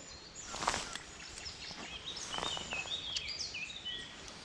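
Songbird singing: a run of short whistled notes stepping down in pitch, about two seconds in, over a light rustling with a few clicks.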